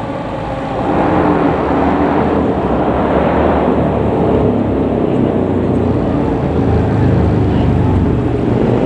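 A heavy fire truck driving past close by: diesel engine and tyre rumble, louder from about a second in. A siren winds down and fades in the first second.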